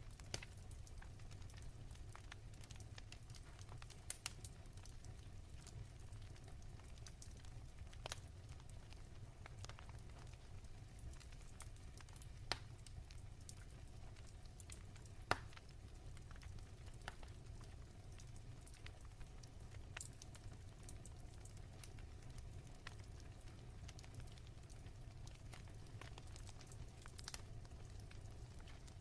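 Wood fire crackling softly: scattered pops and snaps over a low, steady rumble, the sharpest snap about fifteen seconds in.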